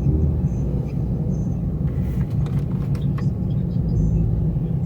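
A car driving: steady low engine and road rumble heard from inside the cabin.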